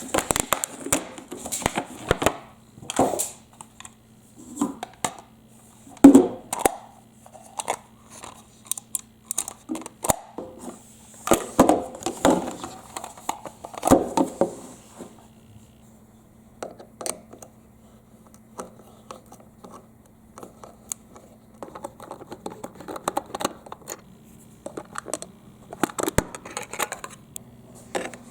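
Small colourful balls clattering and clicking down a HABA wavy marble-run slope in irregular runs of knocks. From about four seconds in, a toy mini washing machine's small motor hums steadily underneath as it spins the balls.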